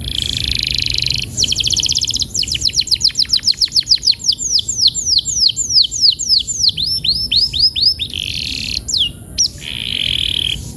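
Domestic canary singing a long rolling song: a buzzy trill, a fast run of repeated notes, then a long string of quick falling whistled notes, ending with two more buzzy trills.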